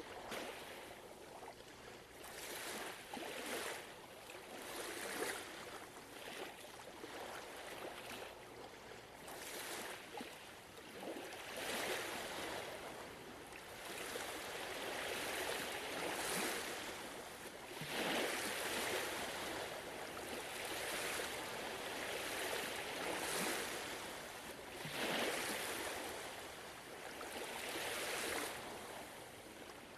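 Gentle ocean waves washing onto a shore, a series of soft swells of surf, each lasting a second or two.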